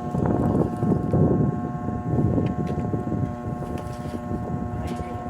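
A steady mechanical hum, holding several fixed pitches, under a louder rumbling buffet of wind on the microphone that eases after about three seconds.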